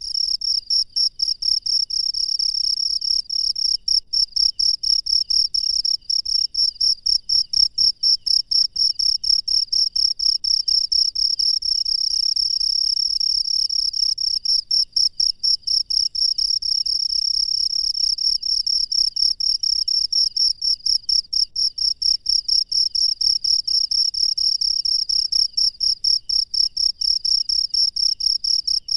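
Cricket chirping loudly in a fast, even train of high-pitched pulses that keeps going without a break.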